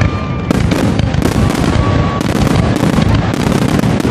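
Fireworks display: aerial shells launching and bursting in rapid succession, many bangs a second over a continuous low rumble.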